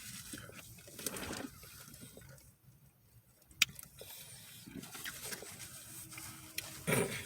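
Soft rustling and handling noises from eating fast food, with one sharp click about three and a half seconds in, over a faint low hum.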